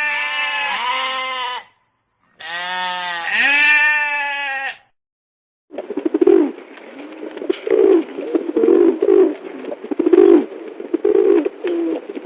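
Two long, quavering bleats from a goat or sheep, then, after a brief silence, pigeons cooing over and over in a low, pulsing rhythm.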